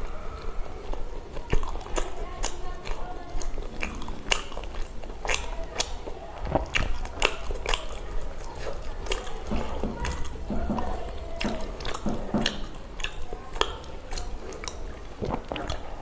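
Close-miked eating of pav bhaji: wet chewing and lip smacking, with many quick, irregular wet clicks from the mouth.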